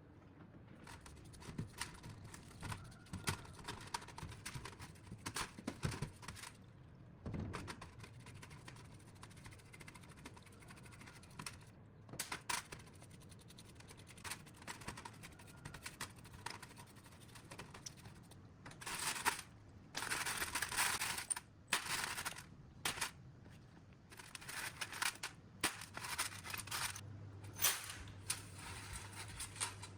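Hand work on metal parts: scattered clicks, taps and short scrapes, then, about two-thirds of the way in, longer spells of scraping or scrubbing noise.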